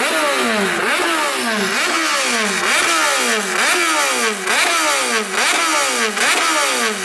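Motorcycle engine revved over and over in quick throttle blips, the note climbing and falling back about ten times, roughly one and a half revs a second.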